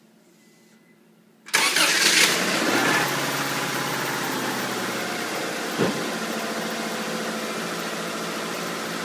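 1994 Subaru Legacy's turbocharged 2.2-litre flat-four (EJ22T) starting about a second and a half in, flaring up briefly, then settling into a steady idle. With its hydraulic lifters freshly bled and two replaced, the lifter noise appears to be gone.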